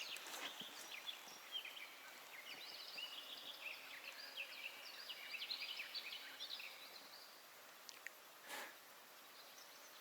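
Faint songbird singing in the background, a quick run of many short high chirps that dies away about seven seconds in. A brief soft rustle or splash comes about a second later.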